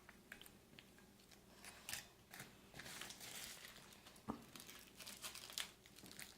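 Faint crinkling and rustling of MRE plastic packaging being handled, with scattered small clicks, busier from about a second and a half in.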